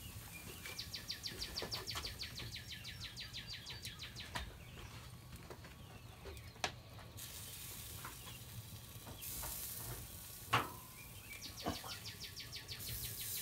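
A bird's fast, even trill of about nine notes a second, heard twice: once for several seconds at the start and again near the end. Between the trills come a few sharp clicks of ribs being set into a wire rib rack on the smoker grate, the loudest about ten and a half seconds in.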